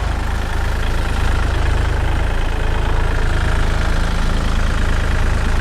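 Dump truck's diesel engine idling steadily, a little louder after about a second.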